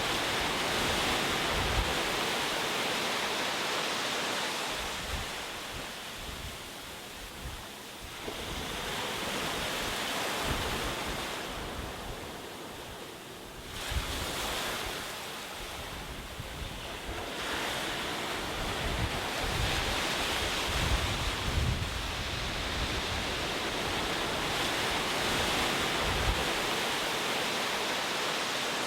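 Ocean waves breaking and washing up the shore, surging and easing every few seconds.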